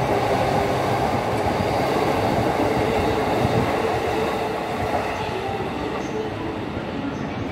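Electric commuter train running past at close range: a steady rumble of wheels on rails, easing slightly near the end as the last cars go by.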